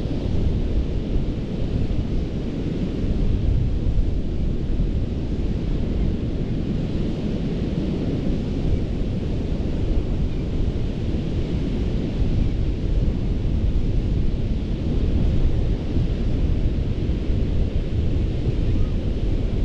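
Ocean surf breaking on a beach: a steady wash of waves with a deep rumble underneath, swelling and easing slightly without clear breaks.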